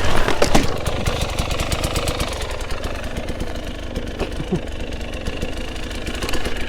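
GasGas 300 two-stroke dirt bike engine idling with a rapid, uneven popping beat, with a few sharper knocks in the first second.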